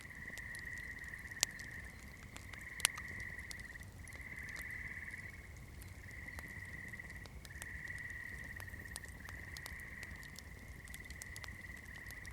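Campfire crackling: burning wood gives off many irregular small snaps, with two sharp loud pops in the first three seconds. Under it runs a steady high-pitched trilling chorus that comes and goes every second or two.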